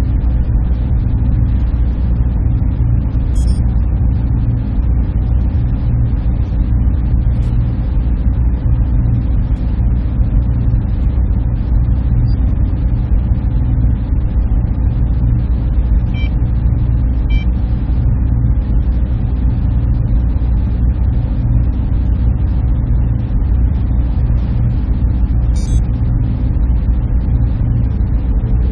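Server room ambience: a steady, low-heavy drone of cooling fans and equipment hum, with a faint steady tone running through it. A few faint, short high ticks come through now and then.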